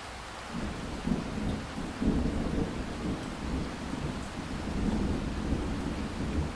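Thunder rumbling over steady rainfall: a low rumble comes in about half a second in, swells twice, and carries on under the even hiss of the rain.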